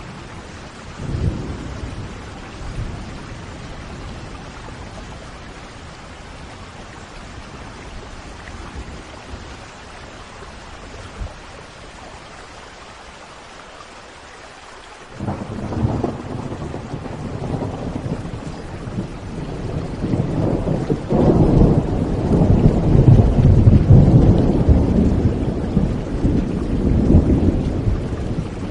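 Steady rain with thunder: a short clap about a second in, then a rumble that starts suddenly about halfway through and builds to its loudest near the end.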